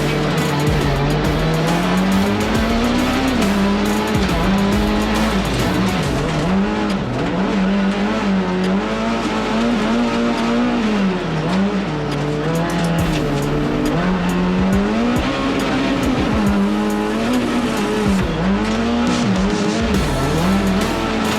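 Rallycross race car engine revving up and down through the lap, its pitch repeatedly rising and dropping as the driver accelerates and lifts, with tyre and gravel noise. Music plays underneath.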